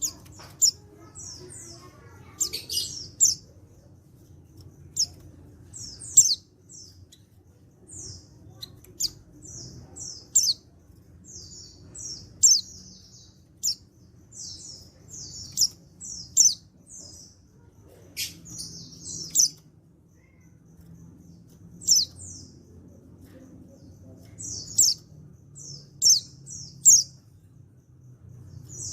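Male white-eye (pleci) giving short, sharp, high-pitched chirping calls, often two or three in quick succession, repeated with short pauses throughout.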